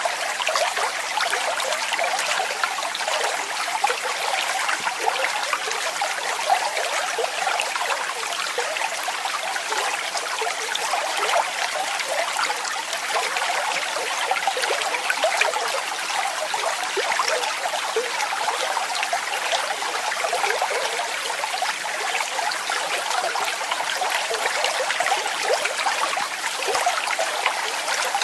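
Small waterfall running steadily: an even rush of falling water, full of small quick splashes, with little deep rumble.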